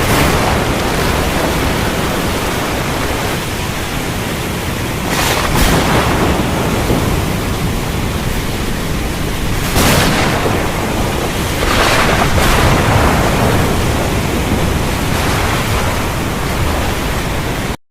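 Steady rain with thunder and sea surf, swelling louder about three times as thunder and waves surge. The sound cuts off abruptly at the very end.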